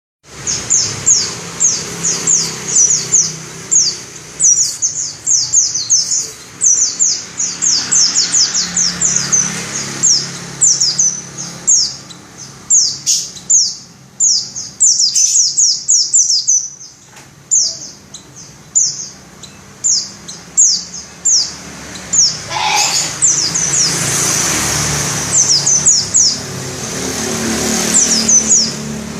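A pleci (white-eye) sings in fast rolling runs of short, high, downward-sliding notes, with brief pauses between phrases. A soft hiss rises under the song for several seconds near the end.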